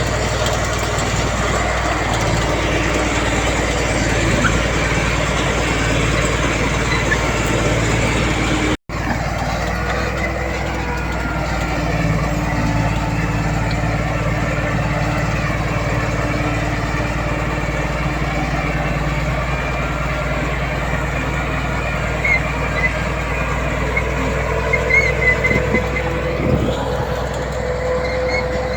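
Heavy diesel earthmoving machinery, a bulldozer working with dump trucks, running steadily under load. The sound cuts out for an instant about nine seconds in, and a few short high squeaks come in toward the end.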